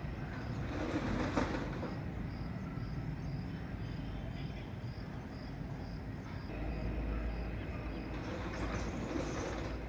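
Steady low rumble of nearby vehicle or workshop machinery, with a deeper hum swelling for about a second and a half past the middle. A faint insect chirp pulses at an even rate underneath.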